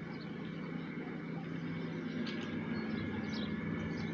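Steady running noise of a bicycle on the move: a low even hum with faint higher tones, and a couple of brief high chirps.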